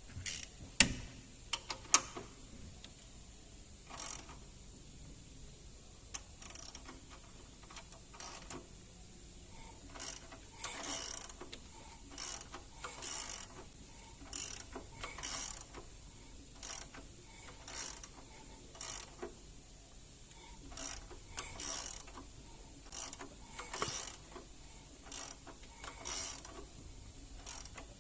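Hand ratchet wrench clicking in short bursts every second or two, with two sharp metal clanks near the start.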